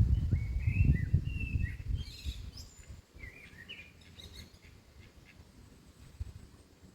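Small birds chirping with short, warbling notes, mostly in the first half. A low rumble, louder than the birds, runs under them for the first two seconds and then fades.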